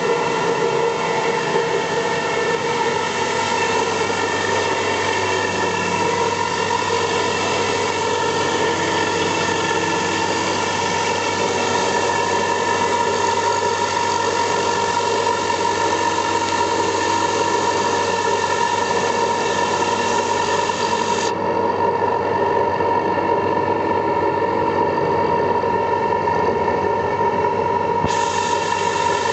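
4-axis CNC milling machine running steadily while milling spherical pockets into a briquette press roller: a constant spindle whine over a hiss of cutting noise. The higher hiss drops away for several seconds about two-thirds of the way through, then comes back.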